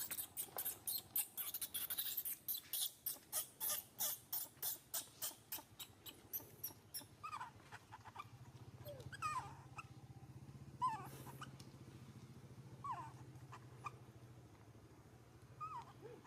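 Baby monkey licking and lapping at milk, a quick run of wet clicks about three to four a second that fades out about seven seconds in, then several short, high squeaking whimpers.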